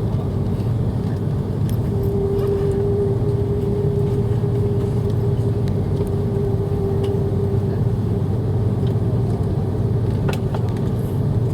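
Steady engine and airflow rumble of an Airbus A330-300 in flight, heard from inside the cabin. A steady hum joins about two seconds in and fades out after about six seconds.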